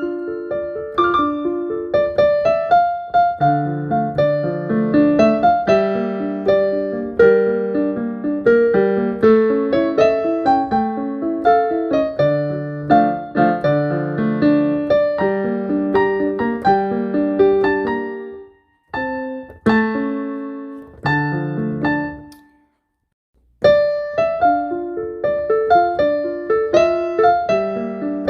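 Solo piano playing a melody over a low accompaniment. About two-thirds of the way through the playing breaks off into a few separate chords and a moment of silence, then starts up again.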